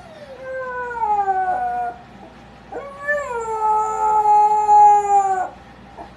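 A dog answering with two long howl-like calls. The first slides down in pitch. The second, louder one rises briefly and then holds nearly level before dropping off.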